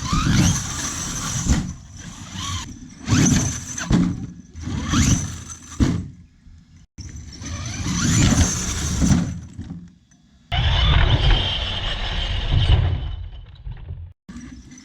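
Large electric RC monster truck's brushless motor whining up in pitch in repeated bursts of acceleration, with tyre noise and knocks from the chassis, in several short clips joined by abrupt cuts. A steadier high whine runs through one stretch near the end.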